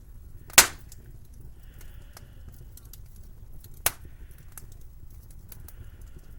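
Wood fire crackling, with scattered small clicks, soft hissing and two loud sharp pops about three seconds apart.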